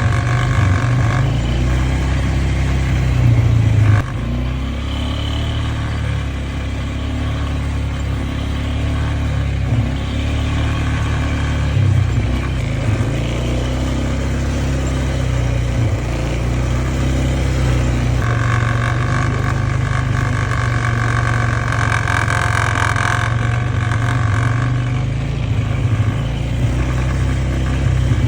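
An engine running steadily at low pitch, its note shifting up and down every few seconds, with a higher-pitched tone added for several seconds in the second half.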